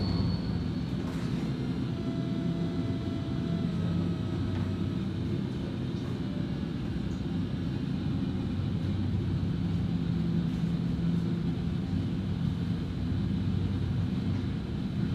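A steady low rumbling drone with a deep hum, holding level throughout.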